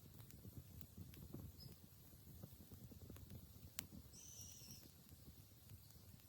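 Quiet outdoor ambience: faint scattered clicks and crackles, with a small bird chirping once about four seconds in.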